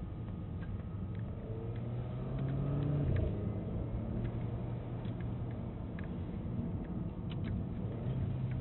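Renault Clio R.S.'s 1.6-litre turbocharged four-cylinder engine heard from inside the cabin while driving. Its note rises gently for about three seconds, then drops back and holds steady, over road and tyre noise with occasional faint ticks.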